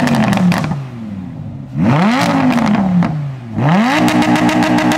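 Lamborghini Huracán's V10 revved through its factory sports exhaust: a falling rev, then two more quick blips, the last held high near the end. Crackles come as the revs drop.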